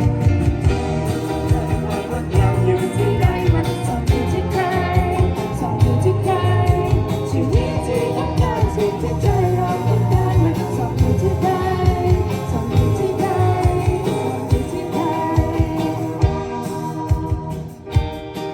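A band playing a pop-rock song with a lead singer over a steady drum beat.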